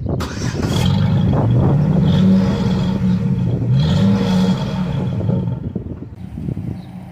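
2007 Chevrolet Silverado pickup's engine pulling under acceleration, its pitch rising and dropping back twice, with road and wind noise; the sound fades off near the end.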